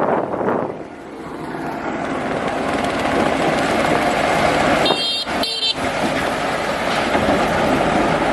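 Heavy construction machinery engine running, growing louder over the first few seconds, with two short horn toots about five seconds in.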